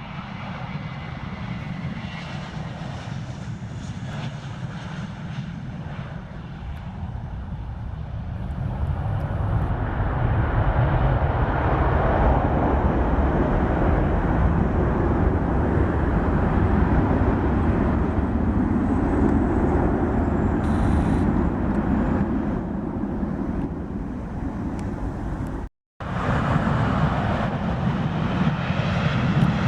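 Jet airliner engines running as a plane moves along the runway, a steady rumble that grows louder about ten seconds in. The sound drops out for an instant near the end, then carries on.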